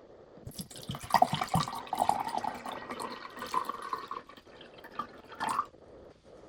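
Water running and splashing, with a few small knocks; it stops shortly before the end.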